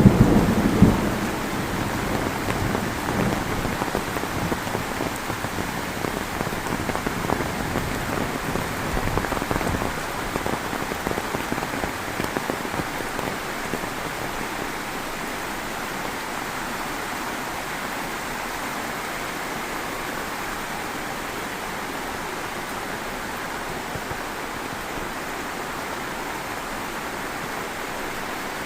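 Heavy rain falling steadily, with a rumble of thunder at the start that dies away over the first ten seconds or so.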